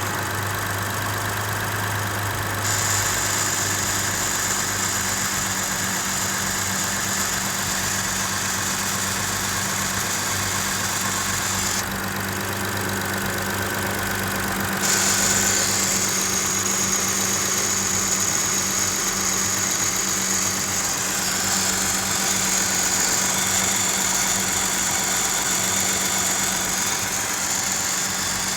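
Mitsubishi Pajero Sport's 6B31 3.0-litre V6 idling steadily with an extraneous high-pitched hiss over it. The hiss starts about three seconds in, drops out for a few seconds around the middle, then comes back.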